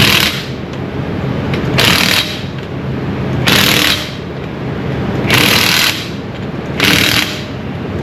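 Impact wrench running lug nuts on a truck wheel in four short bursts, about one every second and a half, over a steady low hum.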